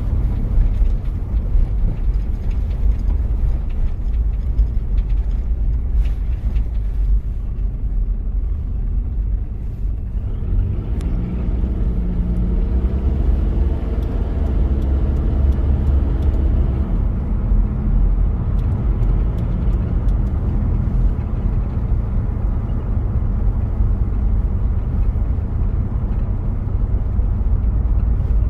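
1993 Toyota Prado diesel engine running while the vehicle is driven, a steady low rumble with road noise. About ten seconds in a stronger engine note comes up for several seconds, as under acceleration, then settles back.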